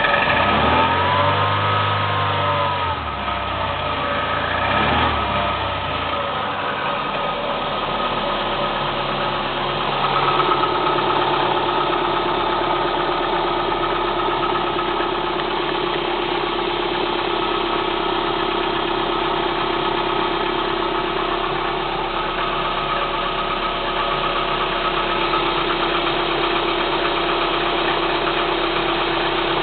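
Kia Spectra 1.6 inline-four engine revved up and back down twice in the first six seconds, then idling steadily with the knocking rattle it makes when cold.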